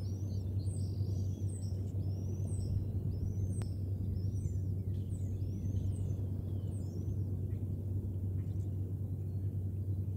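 Bird chirping: a run of high, arched chirps, about two a second, fading away after about seven seconds, over a steady low hum. One sharp click comes about three and a half seconds in.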